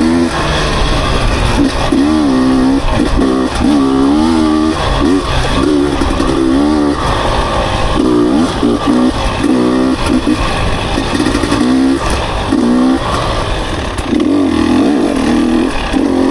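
Dirt bike engine running under the rider, its pitch repeatedly rising and falling every second or so as the throttle is worked on and off.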